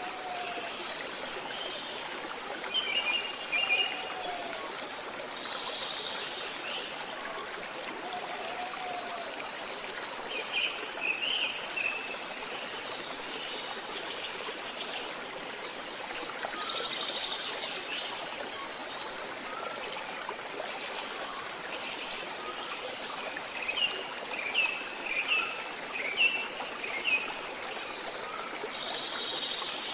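A stream trickling and flowing steadily, with birds chirping in short bursts a few seconds in, around the middle and again near the end.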